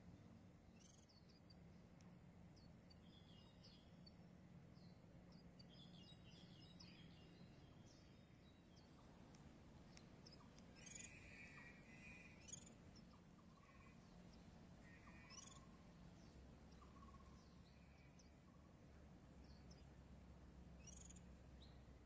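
Faint, short, high bird chirps scattered at irregular intervals, a little clearer around the middle, over a steady low hum.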